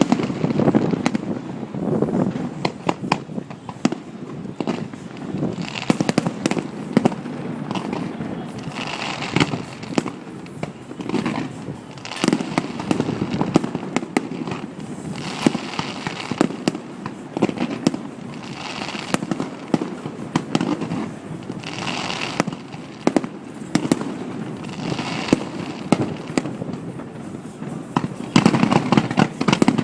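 Fireworks display going off: a steady stream of sharp bangs and crackling bursts, with a dense barrage of rapid bangs near the end.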